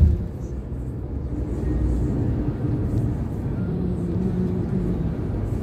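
Road-vehicle cabin noise while driving: a steady low engine and road rumble. A faint radio song plays underneath, and there is a brief low bump right at the start.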